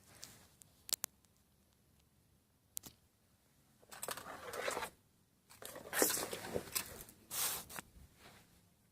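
A few sharp clicks, then three bursts of scraping or rustling, each lasting about a second.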